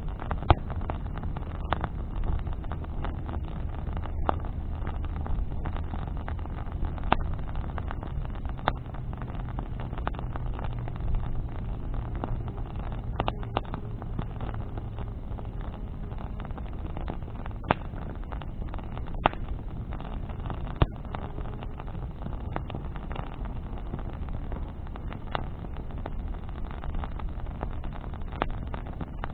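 Bonfire of burning branches crackling, with sharp pops at irregular intervals over a steady low rumble with a faint hum.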